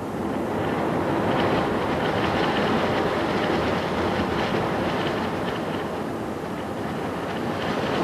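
A heavy vehicle running with a steady rumble and rattle.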